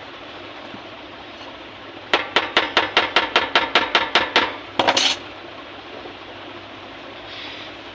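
A small hammer tapping quickly, about five even strokes a second for a couple of seconds, then a brief flurry of faster taps, over a steady background hum.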